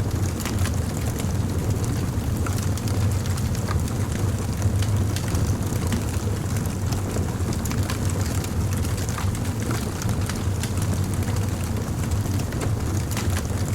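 Fire crackling with frequent small, irregular pops and snaps over a steady low rumble.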